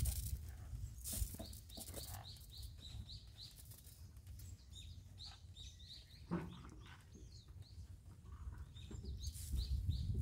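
A bird repeating short, rising high chirps, about three a second, for roughly four seconds before they fade out around the middle. A low rumble runs underneath.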